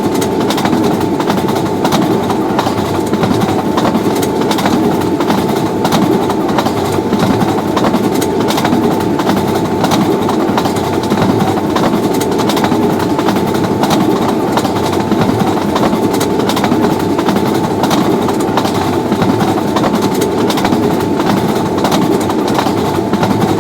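A train passing through at high speed: a loud, steady rumble of the moving train with a rapid, continuous clatter of wheels over rail joints.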